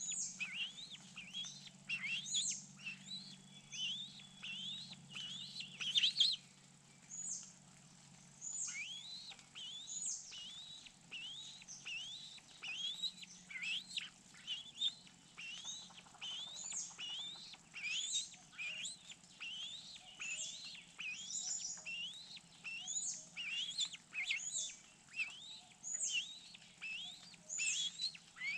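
Birds chirping: an unbroken run of short, high chirps, each a quick sweep in pitch, one or two a second, over a faint low hum.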